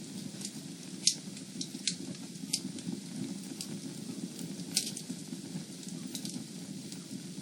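Fire in a fireplace crackling: a steady low rumble of flames with scattered sharp pops, about seven of them, the loudest about a second in.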